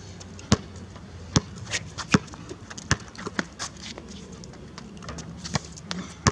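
A basketball bouncing on a court: sharp single bounces about every 0.8 s at first, then a few more at uneven intervals.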